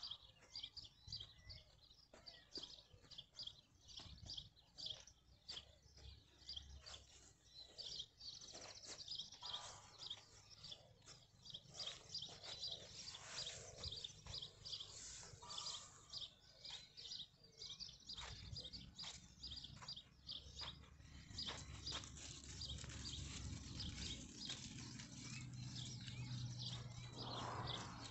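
Faint outdoor ambience of birds chirping in many short, quick calls, over a low rumble.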